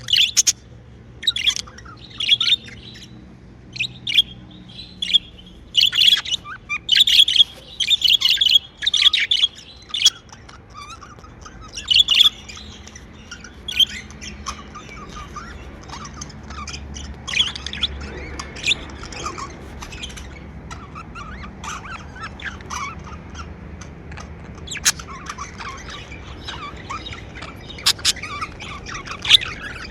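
Pet budgerigars chirping: loud, closely spaced calls for the first dozen seconds or so, then softer, scattered chirping.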